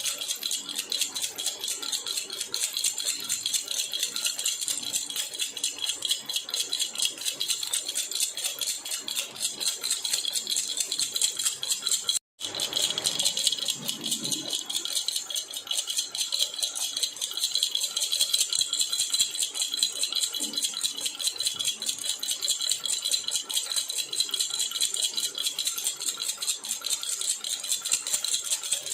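Metal jhunjhuna (baby rattle) shaken steadily, a bright, rapid, even jingling. It cuts out for an instant about twelve seconds in.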